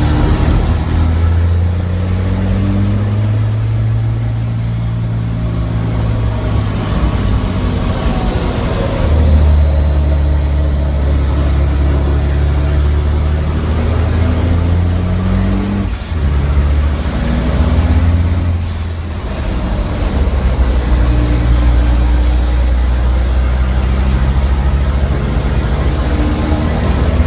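Racing truck's turbodiesel engine running hard under load, heard from the cab, with a high whistle that slowly rises and falls as the revs build and drop. The drone breaks briefly a few times, at gear changes and braking.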